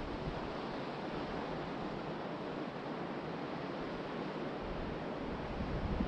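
Ocean surf washing steadily onto the beach, with wind buffeting the microphone in low rumbling gusts that grow stronger near the end.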